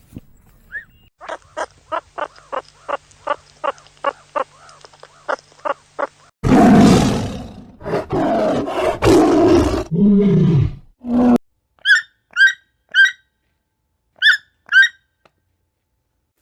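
A run of short, evenly spaced animal calls, about three a second, then a big cat's loud roaring from about six seconds in, lasting around five seconds. The roaring gives way to five short chirping calls near the end.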